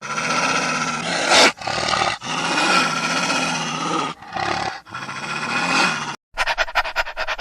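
A carnivorous animal growling and roaring in long, harsh calls broken by short pauses. Near the end, after a brief gap, a different sound starts: a fast run of short pulses.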